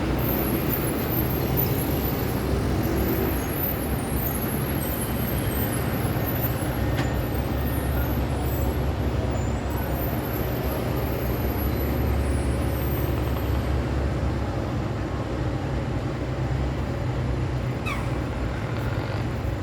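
City road traffic with heavy vehicles passing: a continuous low rumble of engines and tyres. A brief falling squeal comes near the end.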